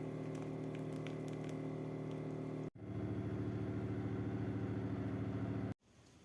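A motor running steadily, cut off abruptly about two and a half seconds in, back at once, and cut off again near the end.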